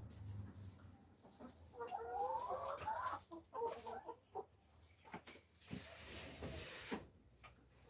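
Backyard hens clucking, a run of short wavering calls about two seconds in, with scattered light knocks and clicks of handling in between.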